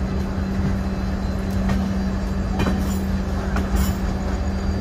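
Passenger train running on the rails, heard from its open coach door: steady running noise with a constant hum and a few sharp clicks of the wheels over rail joints.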